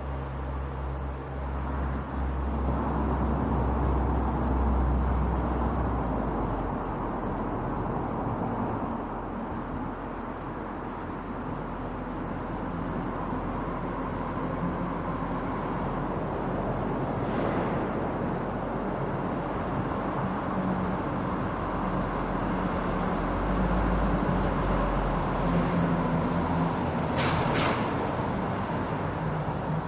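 Car driving on an expressway, heard through a roof-mounted camera's microphone: steady tyre and wind noise with a low engine hum and surrounding traffic. Two short sharp sounds come close together near the end.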